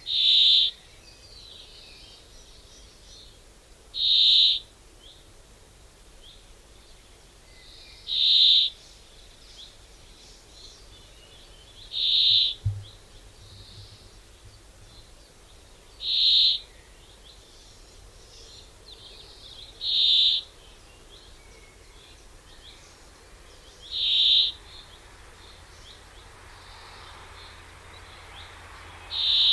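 A bird calling one short, high note over and over, evenly about every four seconds, with fainter chirps from other birds in between.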